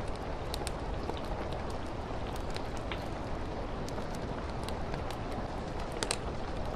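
Steady rain making an even hiss, with a wood fire crackling over it in scattered sharp pops and ticks; a slightly louder pop comes about six seconds in.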